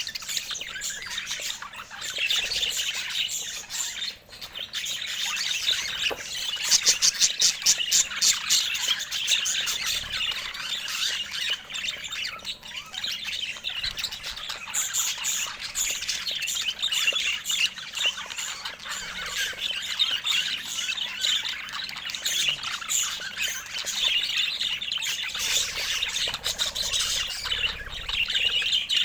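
Pet budgerigars (parakeets) chattering, warbling and squawking without a break, with a run of fast clicking chirps about a quarter of the way in.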